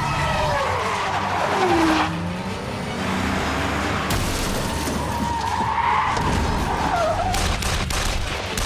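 Car-chase sound effects from a film soundtrack: a car's engine and tyres skidding, with pitch sliding downward at the start. Near the end a rapid run of sharp cracks begins.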